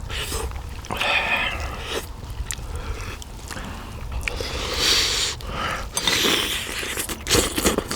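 Close-up eating of gamjatang (pork bone soup): chewing and slurping in irregular noisy bursts, with short clicks and scrapes.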